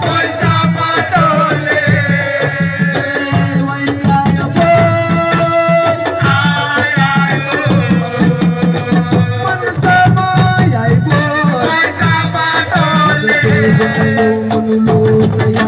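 Live Senegalese assiko music: fast, dense drumming under a lead singer's voice.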